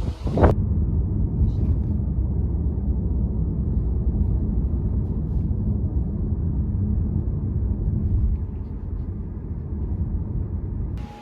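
Steady low rumble of a car driving, easing a little after about eight seconds.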